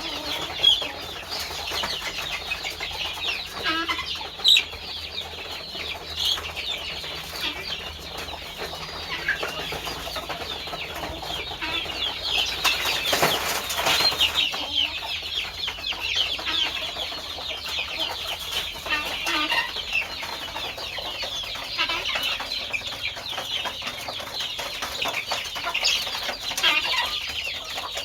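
A flock of chickens calling: many overlapping short, high-pitched cheeping calls throughout, with an occasional lower cluck. A brief rustling burst comes around the middle.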